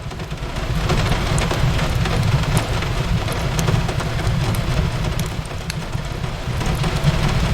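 Steady rain falling on a window, with a low rumble underneath and scattered sharp pops and crackles of a wood fire in a fireplace.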